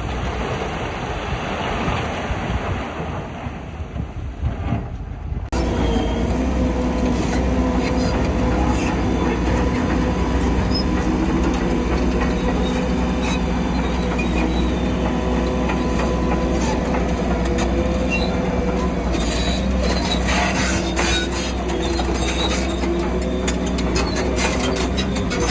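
Heavy diesel earthmoving machinery running steadily, with metallic squealing and clanking typical of a crawler dozer's steel tracks. The sound changes abruptly about five seconds in to a steadier, louder engine note.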